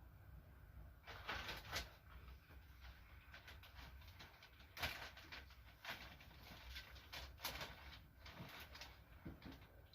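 Faint rustling and scattered soft clicks, with one sharper click about five seconds in, over a low background hum.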